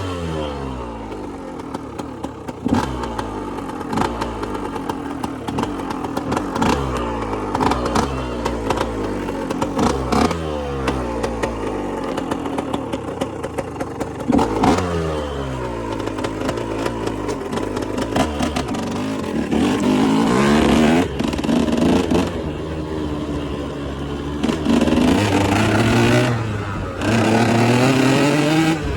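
KTM motorcycle engine under way, its pitch climbing and then dropping again and again as the rider accelerates and shifts up through the gears. It holds high revs for a couple of stretches in the second half.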